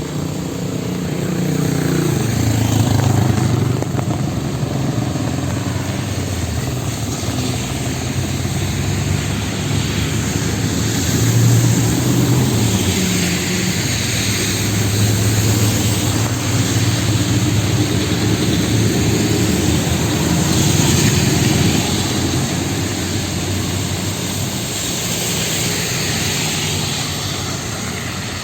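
City street traffic on a wet road: vehicle engines running and tyre noise swelling and fading as several vehicles pass one after another.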